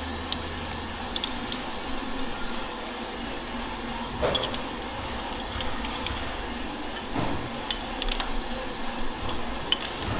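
Engine repair workshop sounds: a steady background hum with scattered light clicks and knocks, the loudest knock about four seconds in.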